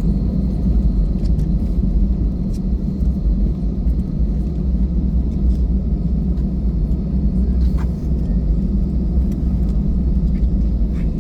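Steady low rumble of a jet airliner heard from inside the passenger cabin, with a few faint clicks.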